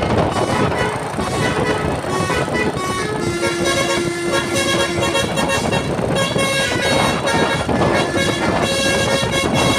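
Multi-tone musical air horn (basuri horn) on a Hino truck playing a melody of held notes that step from pitch to pitch, over the noise of the truck's engine.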